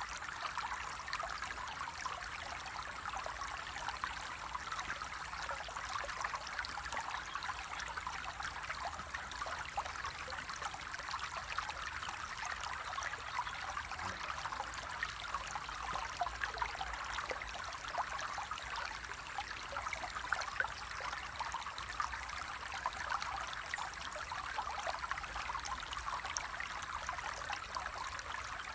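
Flowing water: a steady stream trickling and splashing, with many small drops and splashes over an even rush.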